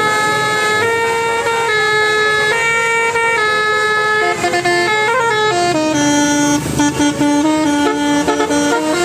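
Musical multi-tone horn playing a melody: held notes, each lasting about half a second to a second, stepping up and down in pitch without a break.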